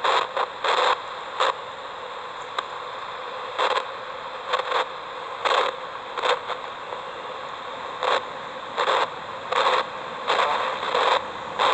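Spirit box sweeping through radio stations: a steady hiss of static broken by short, irregular bursts of noise, roughly one or two a second.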